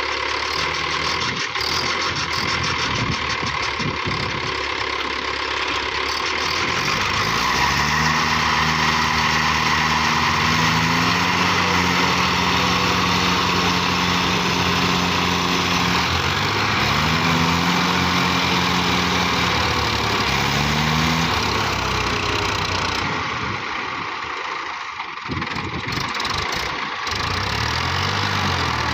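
Tractor diesel engine working under heavy load in a tug-of-war pull, its revs climbing a quarter of the way in and holding high, sagging and recovering twice, then dropping and quietening before picking up again near the end.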